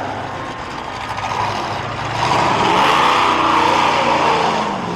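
Monster truck engine running, rising in level and revving harder from about two seconds in, then easing off near the end.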